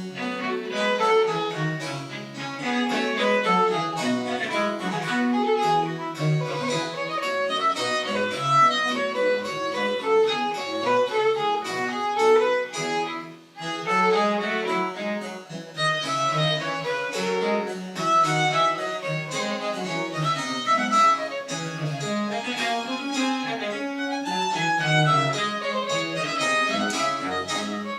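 Baroque chamber music played live, with a violin-like bowed string line over a lower bowed bass part. The music breaks off briefly about halfway through and then carries on.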